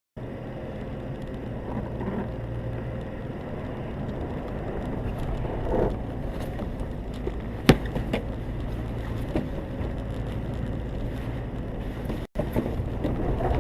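A car driving, with steady low engine and road rumble and a single sharp knock about halfway through. The sound drops out for an instant near the end.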